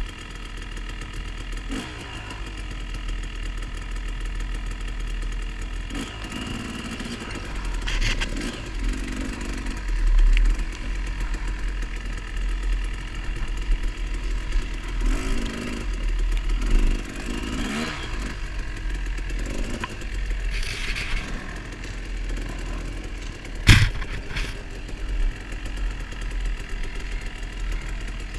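Off-road motorcycle engine running on a trail, revving up in several swells. There is one sharp knock about 24 seconds in.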